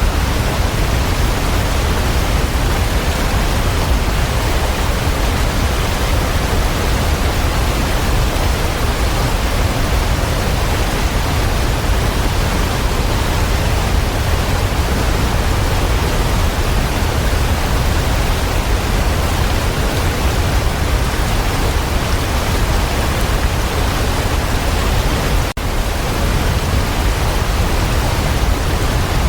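Waterfall: a steady, dense rush of falling water, heavy in the low end, broken once by a split-second dropout about 25 seconds in.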